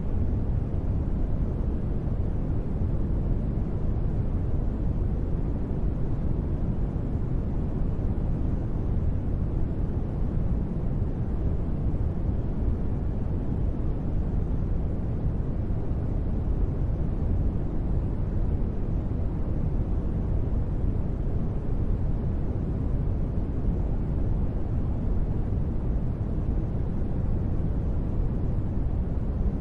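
Steady ambient noise, heaviest in the low end and dull in the highs, with no events or changes in level: the continuous noise bed of a space-ambience relaxation track.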